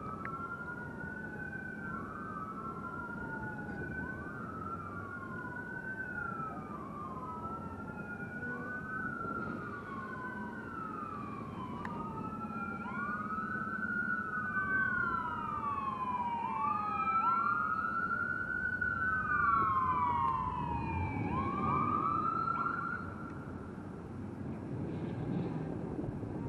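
Emergency vehicle sirens wailing, each cycle rising and falling over about two seconds. A second siren overlaps the first through the second half as they grow louder, then the wailing stops a few seconds before the end. A steady low hum runs underneath.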